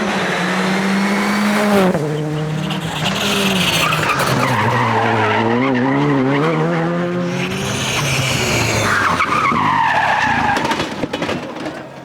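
Rally car engine running hard through a stage, its pitch stepping down about two seconds in and wavering up and down through the middle as the car slides with the tyres skidding, then fading away near the end as it leaves.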